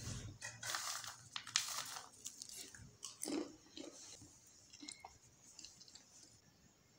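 Crunchy chewing and biting, a dense run of crackles that thins out and grows quieter after about three seconds.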